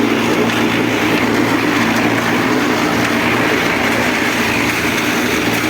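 Concrete mixer running steadily, its drum churning a mix over a constant motor hum.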